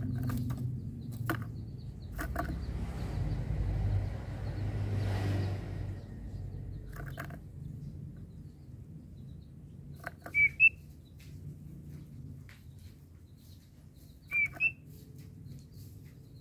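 White-rumped shama giving two short, sharp two-note chirps about four seconds apart. Under them a low rumble fades away over the first few seconds, with a few faint clicks.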